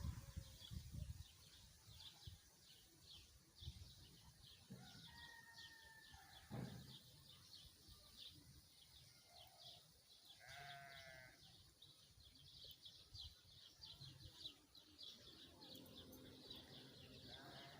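A faint bleat from a farm animal about ten seconds in, its pitch wavering, with a few shorter calls before it. Under it runs a faint, steady train of rapid high-pitched chirps.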